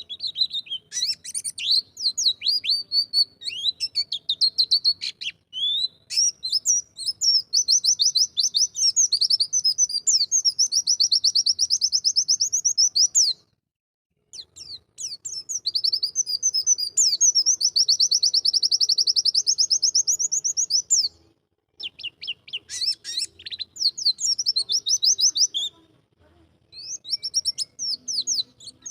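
White-eye (pleci) singing long, rapid, high-pitched chattering-trill phrases. The song breaks off briefly three times and starts up again.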